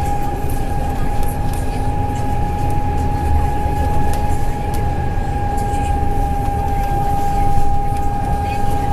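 Double-decker bus running, heard from inside the cabin: a steady low engine and road rumble with one constant high-pitched whine over it.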